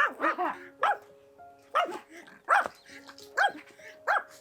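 A dog barking repeatedly in short, high, pitched barks: a quick cluster of three or four at the start, then single barks about once a second. Soft background music with held notes plays underneath.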